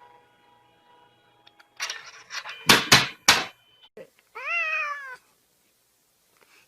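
A domestic cat meows once, a single call that rises and then falls in pitch, about four and a half seconds in. Just before it come a few short, loud, sharp noisy sounds.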